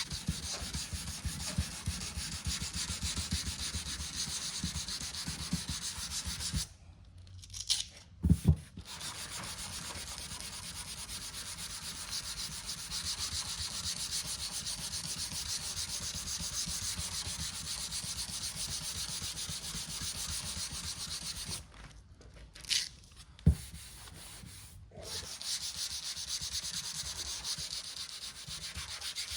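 Sanding block with 320-grit paper rubbing down cured UV body filler on an aluminium panel: a steady, even scratching. It stops twice briefly, each pause holding a sharp knock or two.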